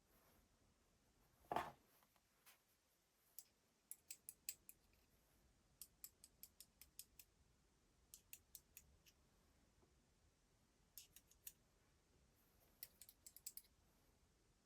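Small hard parts of a cordless drill clicking as they are handled during a gearbox repair: one dull knock, then several short runs of quick, light clicks.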